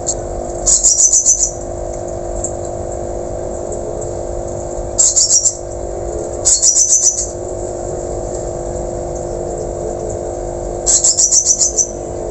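A caged whistling thrush (ciung batu) calling four times, each call a quick rattled series of six or seven sharp, high notes lasting under a second. A steady low hum runs underneath.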